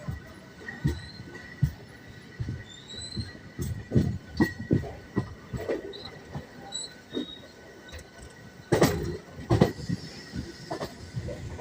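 Ride in a moving passenger train: steady running rumble with irregular knocks and clatter from the wheels and coach, the loudest pair about nine seconds in, and a few short high squeaks.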